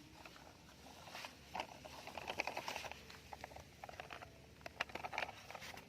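Irregular light taps, clicks and rubbing of small plastic toys being handled and scrubbed, busiest in the middle.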